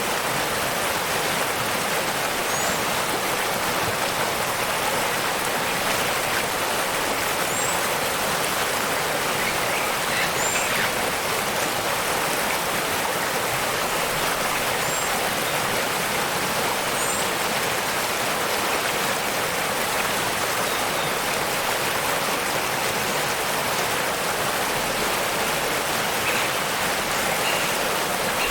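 Waterfall rushing steadily, with a few faint, short, high bird chirps scattered through it.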